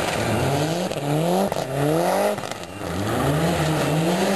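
Rally car engine revving hard, its pitch climbing and falling back several times as it accelerates, with a short lift off the throttle about halfway through.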